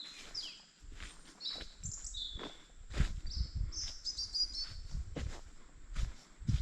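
Small birds chirping in short high phrases, some notes falling and a quick twitter about four seconds in, over footsteps on the forest floor that become heavier from about three seconds in.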